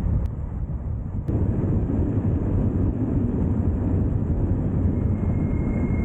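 Wind buffeting the microphone as a low, steady rumble while riding a bike, with two faint clicks in the first second and a half. A thin, steady high whine comes in near the end.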